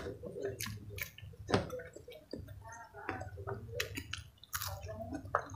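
Close-up chewing of a mouthful of fried instant noodles and green chilies eaten by hand, with wet squelching and a string of sharp lip smacks and mouth clicks.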